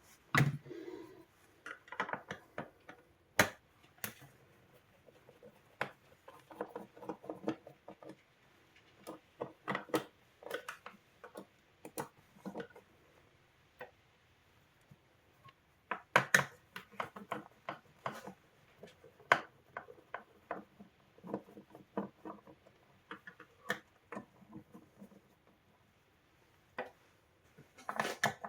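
Irregular small clicks, taps and light knocks of hand work on parts and tools on a bench, with sharper knocks about three seconds in, around sixteen seconds, and near the end.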